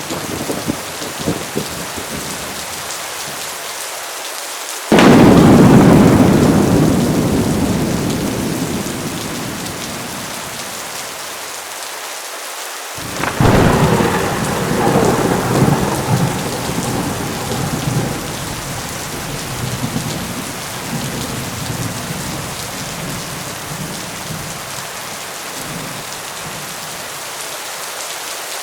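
Steady heavy rain with two loud thunderclaps, one about five seconds in and another about thirteen seconds in, each cracking suddenly and then rumbling away over several seconds. Another clap begins right at the end.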